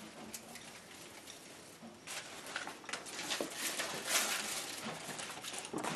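Irregular rustling and light clicks of Christmas ornaments being handled and unwrapped, busier from about two seconds in.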